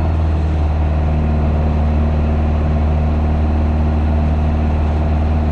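Piper PA-28's piston engine and propeller droning steadily in the cockpit, a constant low hum with no change in pitch, as the aircraft levels off after a climb.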